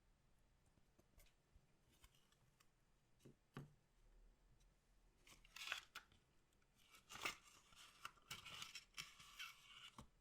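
Faint handling of a trading-card box's packaging: a few small clicks, then two spells of crackly plastic or foil wrapper being cut or torn open, about five seconds in and again from about seven seconds.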